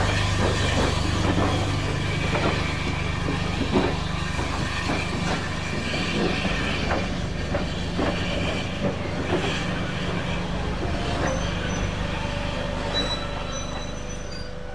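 Passenger coaches of a steam-hauled train rolling along the track: irregular wheel clicks and clatter over a steady low rumble, fading gradually as the train moves away.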